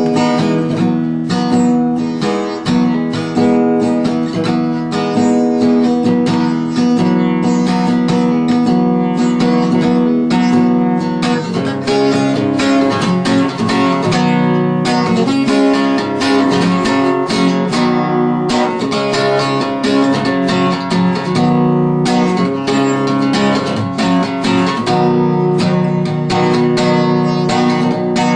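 Acoustic guitar music, strummed and picked at a steady loud level.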